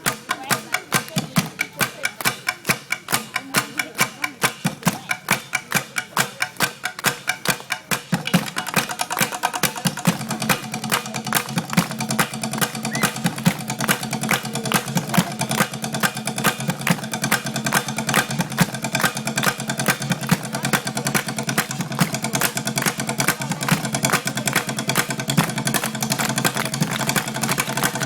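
Audience clapping in a steady rhythm, about three claps a second, then about eight seconds in breaking into continuous loose applause and cheering.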